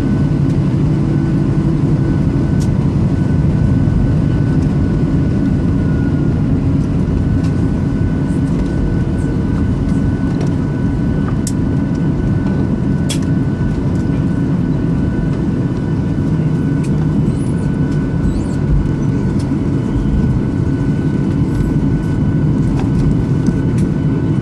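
Boeing 737-800 cabin noise while taxiing after landing: the CFM56-7B jet engines run at idle as a steady low rumble with a faint steady whine, heard from inside the cabin. A few light clicks come through now and then.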